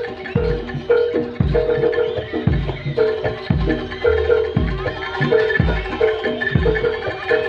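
Javanese jaranan gamelan playing: metal mallet instruments repeat a pitched pattern over low drum strokes about once a second.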